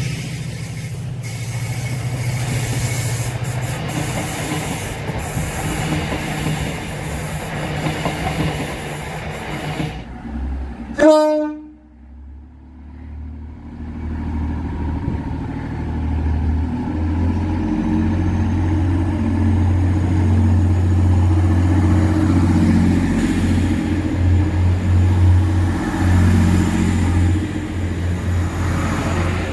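TransPennine Express trains passing close: first a locomotive-hauled coach set rumbling by with rail and wheel noise, then a short, sharp horn blast about eleven seconds in. After a brief lull, a Class 185 diesel multiple unit's engine drone builds as it runs through the platform and passes.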